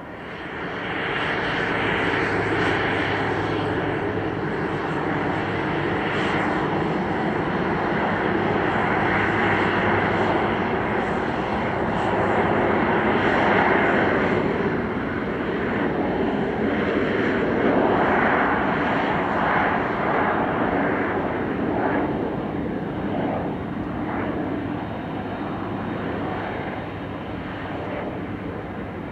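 Jet airliner's engines running as it taxis, a steady heavy engine noise that swells up over the first couple of seconds, then wavers slightly and eases a little towards the end.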